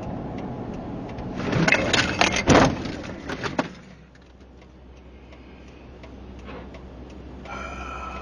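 A vehicle's steady road noise, broken by about two seconds of loud clattering impacts, then a quieter stretch with a faint steady ticking.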